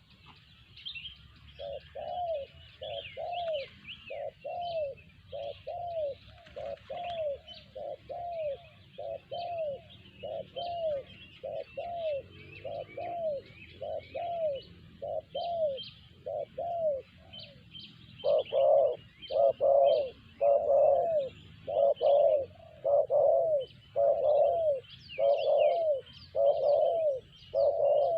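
Spotted dove cooing, a long run of evenly repeated arched coos about one a second, growing louder about two-thirds of the way through. Small birds chirp faintly in the background.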